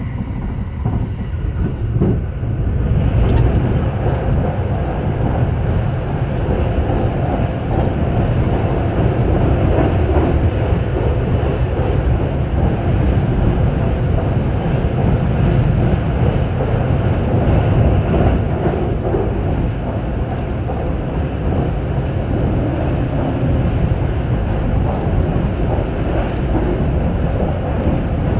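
Haruka airport express train running, a steady rumble of wheels on rails heard from inside the carriage, growing louder about three seconds in.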